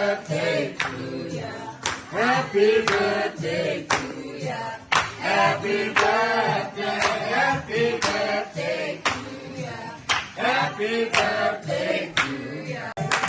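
A group of men and women singing together, with handclaps marking the beat.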